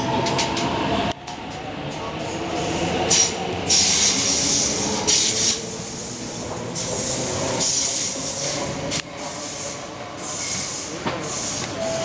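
MTR East Rail Line nine-car R-train, Korean-built, moving through a station. Wheel and rail running noise comes with several rushing hisses and a faint steady motor tone, and the sound drops abruptly about a second in.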